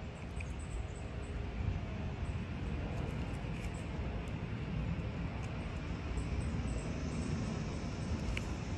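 Steady low rumbling background noise with no clear events, the kind of hum from distant traffic or wind on the microphone; a few faint high ticks sit over it.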